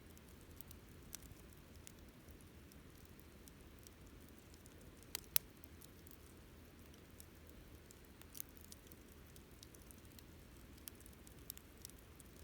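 Wood fire crackling faintly: scattered small snaps, with two sharper pops in quick succession about five seconds in and another at about eight seconds.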